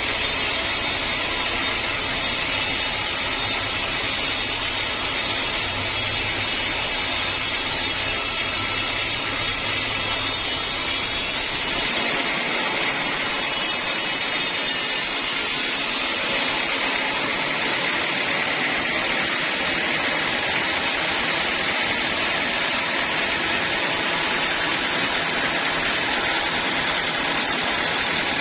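Sawmill saw and machinery running steadily while sawing teak wood, a loud even noise with a low hum that drops away about twelve seconds in.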